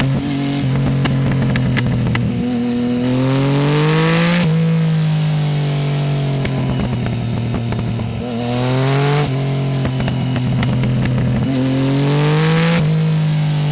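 Yamaha Tracer 900 GT's three-cylinder engine under way through a full Roads Italia exhaust without db-killer. The revs climb and then drop sharply three times, about 4.5, 9 and 13 seconds in, as the rider pulls through the gears and shifts up.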